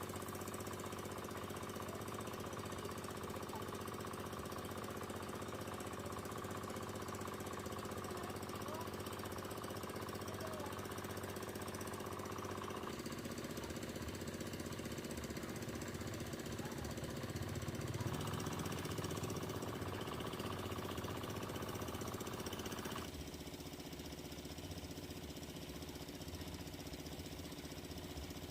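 A small engine running steadily, its sound shifting in a few steps.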